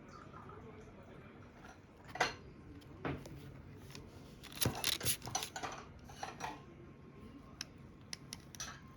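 Light clicks and clatters of small hard objects being handled and set down on a tabletop. They come singly at first, bunch together about halfway through, then come sparsely again.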